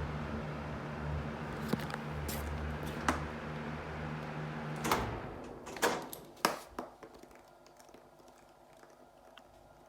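Mitsubishi 25 cm kitchen ventilation fan running with a steady hum that cuts off about five seconds in, right after a sharp click. Scattered clicks and knocks are heard before and after it stops.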